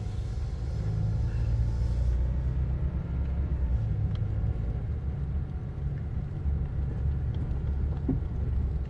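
Vehicle engine and road noise: a low, steady rumble as the vehicle moves slowly.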